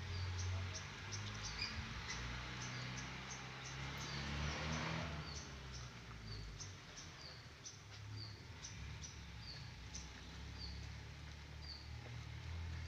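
A small bird calling a short, high chirp over and over, about once or twice a second, over a low steady rumble.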